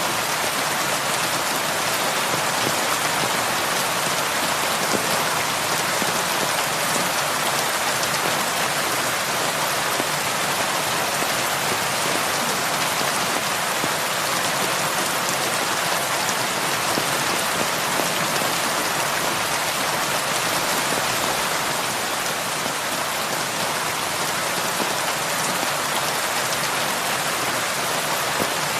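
Heavy rain falling steadily, an even hiss of many drops hitting surfaces, with no let-up or change.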